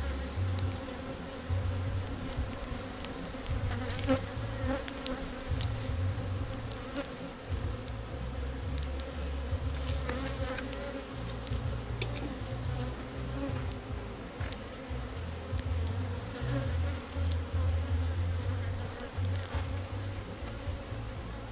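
Honeybees buzzing in a steady hum around an open hive, with a fluctuating low rumble underneath and a few light clicks.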